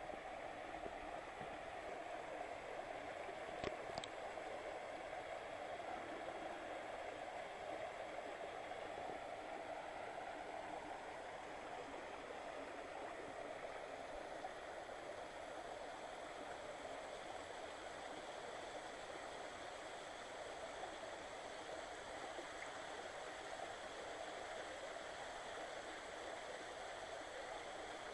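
Mountain stream running over a bedrock bed: a steady rush and gurgle of flowing water, with a couple of brief clicks about four seconds in.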